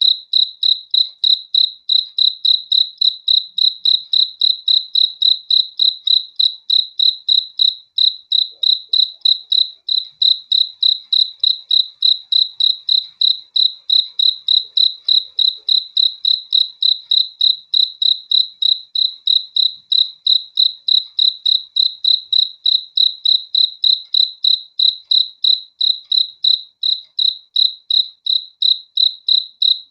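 Cricket chirping in an even, unbroken rhythm, about three high-pitched chirps a second.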